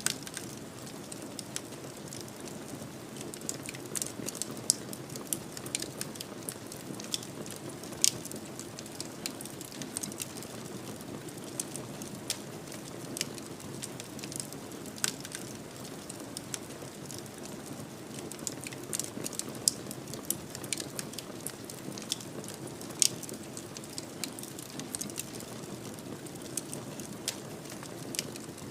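Wood fire crackling in a fireplace: a steady low rush of flame with frequent small pops and a few louder sharp snaps.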